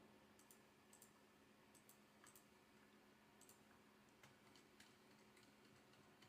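Near silence, with faint scattered computer mouse clicks at uneven intervals.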